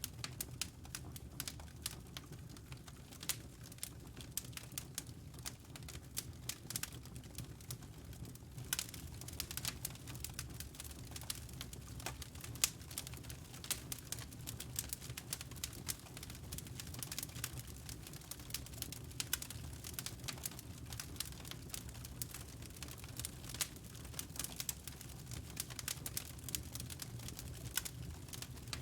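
Wood fire crackling in a fireplace: irregular snaps and pops, thicker from about nine seconds in, over a steady low rumble.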